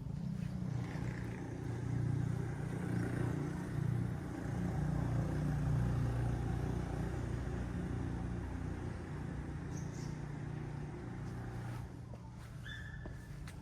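A motor vehicle's engine running close by, a low rumble that swells in the first couple of seconds and drops away about twelve seconds in.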